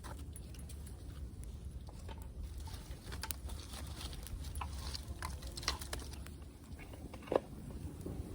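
Scattered light clicks and knocks over a low steady rumble, with one sharper knock near the end.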